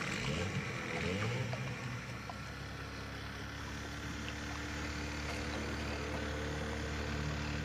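Small boat's outboard motor running, its pitch rising in the first second or so and then holding steady.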